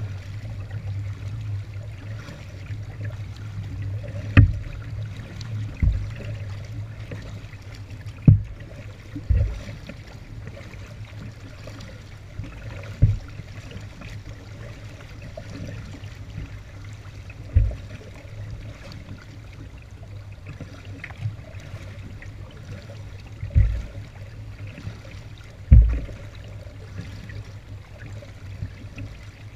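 Kayak paddled through floodwater: water trickling and dripping from the paddle, with about eight irregular low thumps against the kayak's hull over a steady low rumble.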